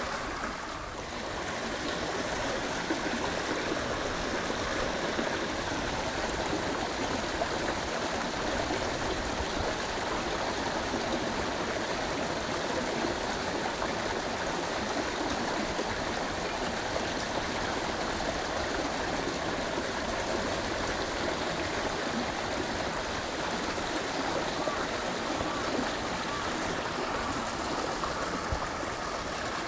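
Water of a stream or channel flowing: a steady, even rush of running water.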